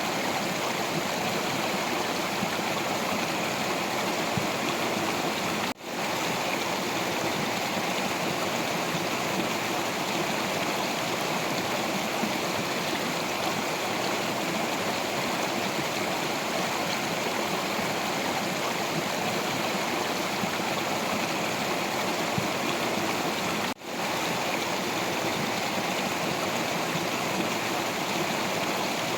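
Water of a stream rushing and gurgling steadily over rocks, the sound cutting out for an instant twice.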